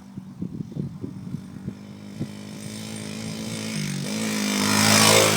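Dirt bike engine running, at first an uneven low chugging, then growing steadily louder as the bike comes closer, loudest near the end. The engine pitch dips and rises again about four seconds in.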